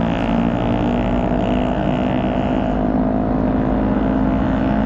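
Motorcycle engine running steadily at cruising speed, with wind rush on the rider's microphone.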